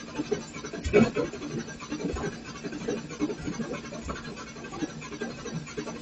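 Irregular knocks and scraping of hands and tools working on the car, with a sharper knock about a second in.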